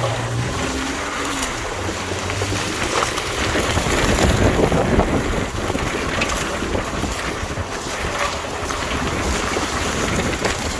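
Wind buffeting the microphone as a rough, steady rush, loudest about four seconds in. A low engine hum fades out in the first half second.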